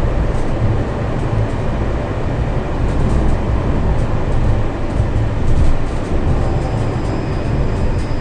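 Tram running between stops, heard from inside the car: a steady low rumble of wheels on the rails with a few faint clicks, and a faint thin high tone joining in near the end.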